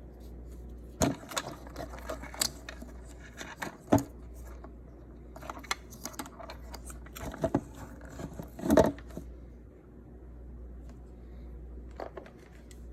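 Irregular clicks, knocks and light clatter of hard objects being handled, several sharp knocks among them, over a steady low hum.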